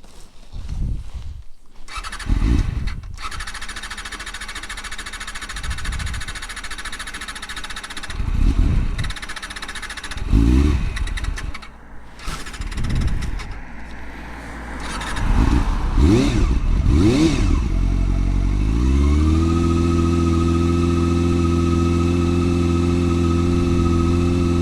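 Honda Hornet 250's carburetted inline-four engine being started and woken up: it runs unevenly, revved in short blips several times, then about three quarters of the way through it rises and settles into a steady fast idle.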